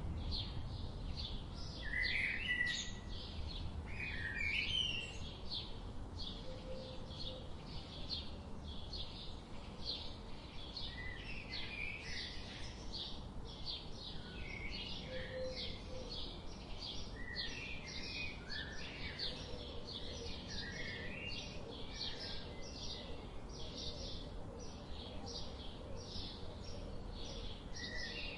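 Songbirds chirping and singing, with short high notes repeating about twice a second throughout, over a steady low rush of flowing river water.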